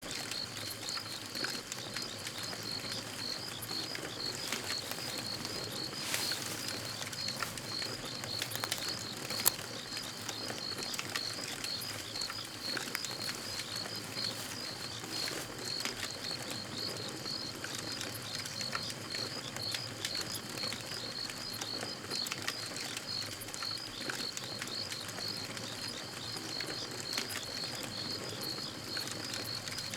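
Campfire crackling, with scattered pops and one sharper crack about nine seconds in, over a steady rapid high-pitched chirping repeating evenly in the background.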